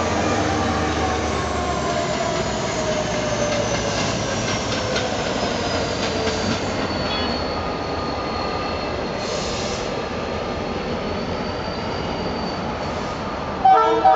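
A diesel locomotive train passing and drawing away. The engine rumble fades out in the first couple of seconds, while the wheels squeal on the rails in long tones that slowly fall in pitch. Near the end, short, loud horn blasts sound.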